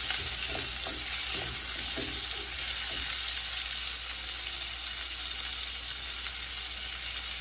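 Diced onion sizzling in hot coconut oil in a nonstick pan, with a wooden spoon stirring and scraping through it for the first few seconds. After that there is a steady sizzle.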